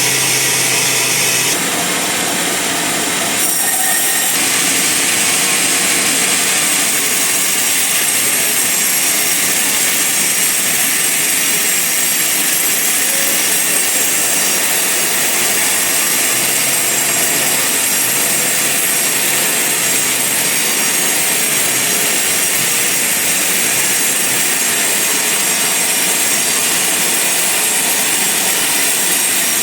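Band sawmill blade cutting through a large log, a loud, steady sawing noise with the motor running under load. The sound shifts about two to four seconds in, then runs on evenly.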